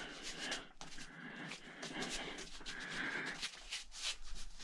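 Metal being bent and worked by hand: a run of small clicks, scrapes and creaks.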